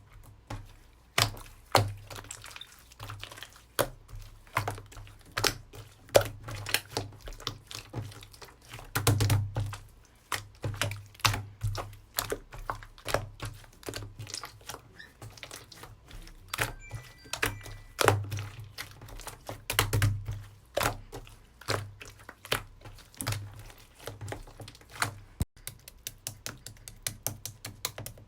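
Slime being squished and poked by hand: an irregular run of sharp clicks and pops, a few a second, with soft low thumps under many of them and a quicker patter of clicks near the end.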